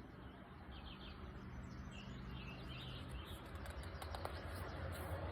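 Quiet background with a low steady hum and a few faint bird chirps.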